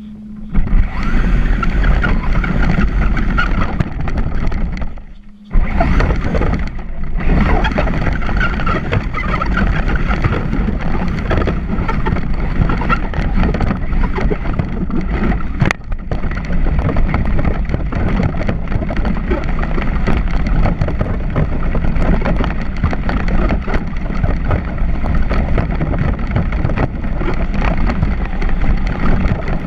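Traxxas Slash 4x4 electric RC truck driving, heard close up: a loud, dense rattle and rumble of the truck running over the ground. It cuts out briefly about five seconds in.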